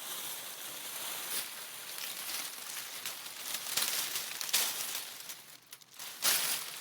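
Water splashing: an irregular wash of sloshing with uneven surges and a brief dip a little before the end.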